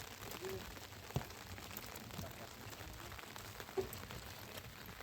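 Rain pattering steadily, with many small drop ticks, and two sharper knocks about a second in and near four seconds in.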